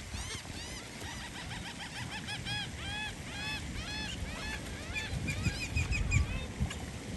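A flock of birds calling: many short, arched, whistle-like chirps, several a second and overlapping.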